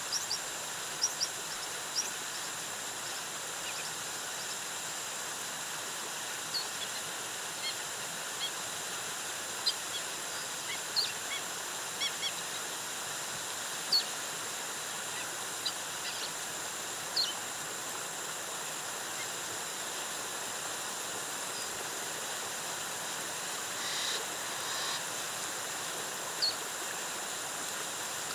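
Steady rush of a rainforest waterfall under a faint, steady high-pitched drone, with short high bird chirps scattered throughout and a longer, fuller bird call about 24 seconds in.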